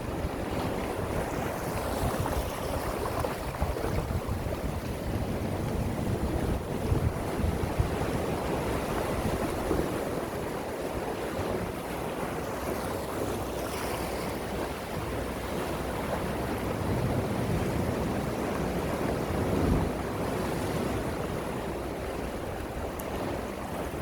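Gentle sea waves washing steadily onto the shore in a continuous surf wash that swells and eases, with wind buffeting the microphone.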